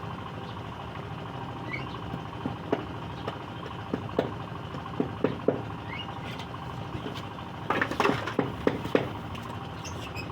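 Scattered small clicks and taps over a steady background noise, with a cluster of them about eight seconds in, and a couple of faint short bird chirps.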